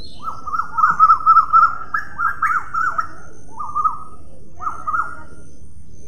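A bird calling in quick runs of short, clear notes: one long run through the first half, then two short bursts with gaps between, over steady low background noise.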